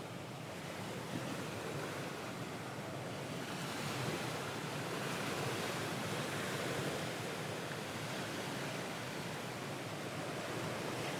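Recorded ocean waves washing on a shore, a steady surf that swells and eases slowly.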